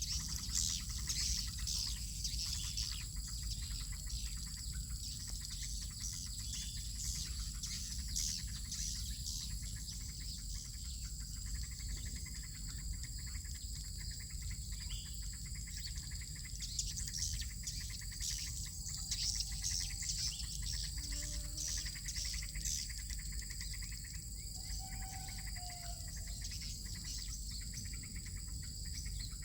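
Swiftlets twittering in many quick, high chirps throughout, over a steady high-pitched ringing drone and a low rumble.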